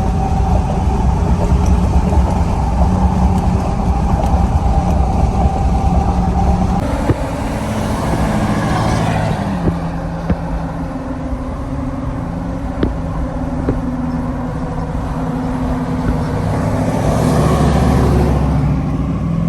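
A motor vehicle being driven: engine running under steady road noise, its engine note shifting pitch a few times as the speed changes.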